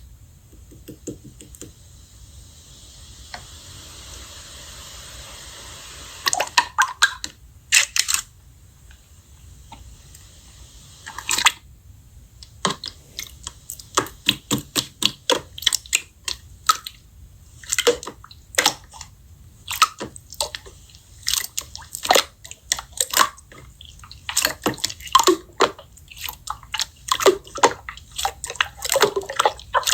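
Slime being squished and pressed by hand: a soft hiss at first, then many quick wet clicks and pops as air pockets in the slime burst.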